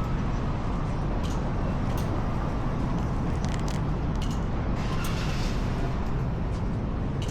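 Motorcycle engine idling steadily, with a few faint light clicks over it.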